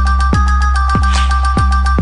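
Electronic dance-style ringtone music: a deep held bass under high sustained synth notes, with a sharp beat about three times a second.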